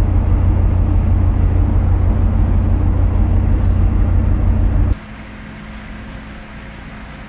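Loud, steady low vehicle rumble that cuts off abruptly about five seconds in, giving way to a much quieter steady hum.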